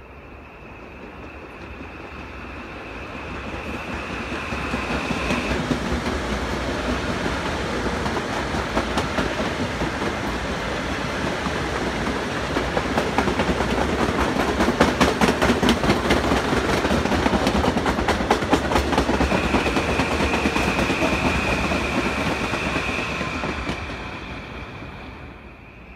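Passenger train passing at speed, growing louder over several seconds to a steady rumble, with rapid wheel clicks over rail joints in the middle as the cars go by, then fading away near the end.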